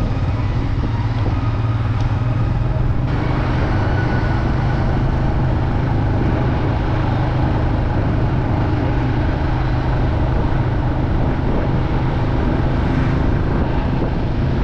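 Motorcycle engine running steadily at cruising speed with constant wind and road rush. The hiss of the rush grows stronger about three seconds in.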